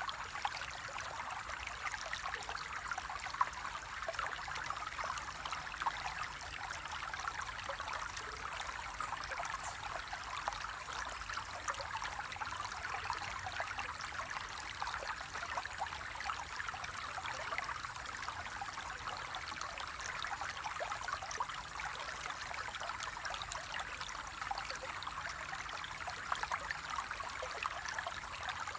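Flowing water running steadily, a continuous splashing hiss full of small splashes.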